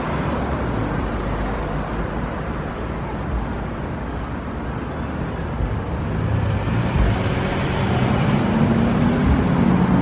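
Road traffic on a busy street, a steady wash of car noise that grows louder about six seconds in as a vehicle's engine hum comes up near the end.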